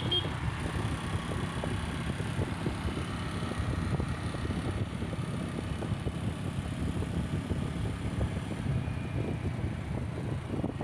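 Steady rumbling vehicle and road noise, with wind buffeting the microphone.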